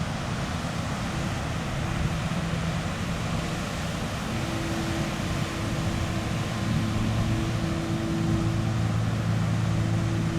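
Sea waves washing on the shore as a steady surf hiss, under a soft meditation-music drone of held low notes that swells in about halfway through.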